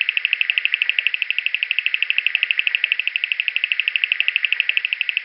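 Bearded sand frog calling: a long, even trill of rapid, high-pitched pulses, a call that beginner birders can easily take for a striped crake.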